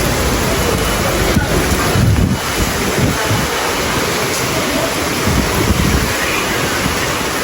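Heavy typhoon-driven rain pouring steadily, with gusts of wind buffeting the microphone in low rumbles.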